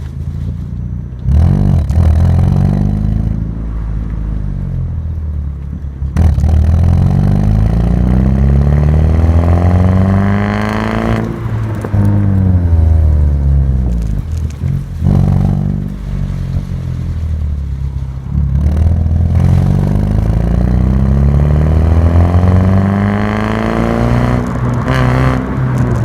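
Alfa Romeo 147's 1.6 Twin Spark four-cylinder engine through a Novitec exhaust with a straight pipe, running loud and revving in long pulls. The pitch climbs steadily over several seconds, drops sharply about eleven seconds in and again about fifteen seconds in, then climbs once more.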